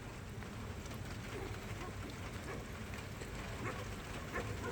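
Steady low rumble of wind on the microphone, with faint scattered ticks.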